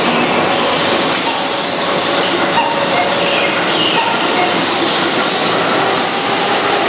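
Keihan 6000-series electric commuter train running, a steady rail noise of wheels and motors with brief faint squeals.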